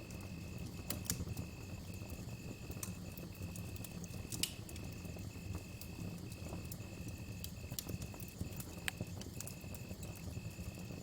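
Campfire crackling, with irregular sharp pops, the loudest about four and nine seconds in, over a low rumble. Behind it runs a steady high cricket trill broken by short gaps.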